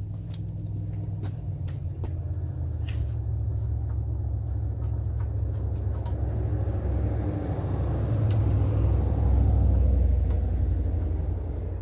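An engine running steadily with a low rumble, swelling to its loudest about eight to ten seconds in and then easing off, with a few sharp clicks in the first few seconds.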